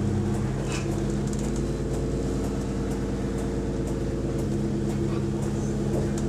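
Bus diesel engine idling steadily, heard from inside the bus, with the rattly idle that the uploader notes.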